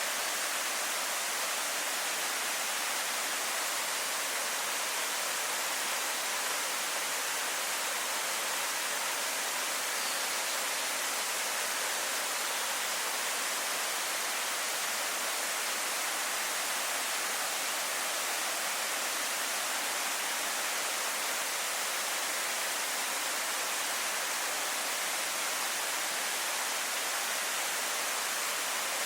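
Waterfall pouring steadily: an even, unbroken hiss of falling water, bright and high with little low rumble.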